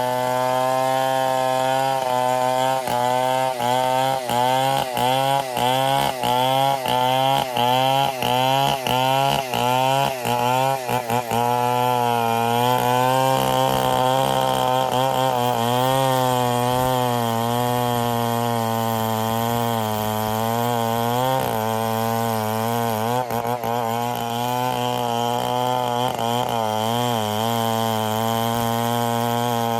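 Stihl 070 two-stroke chainsaw running under load while cutting timber. For the first ten seconds or so the engine note dips about twice a second, then it runs steadier with a wavering pitch.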